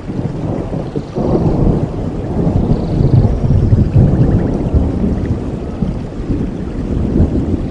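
Thunder rolling over steady rain: a deep rumble that swells sharply about a second in and rolls on for several seconds.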